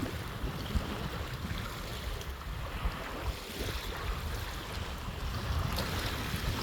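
Waves washing onto a beach, with gusty wind buffeting the microphone.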